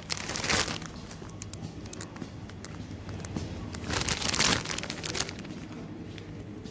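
Plastic packaging crinkling as shop items are handled, in two rustling bursts, one about half a second in and a longer one around four seconds in, with light clicks and knocks between.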